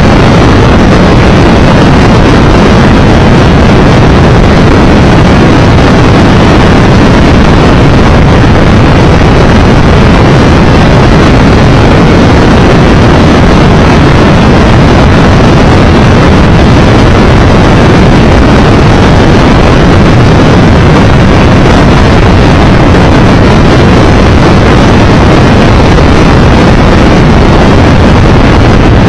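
Loud, steady wind noise on the microphone of a moving motorcycle, mixed with the running of a Triumph Tiger Explorer 1200's three-cylinder engine and road noise.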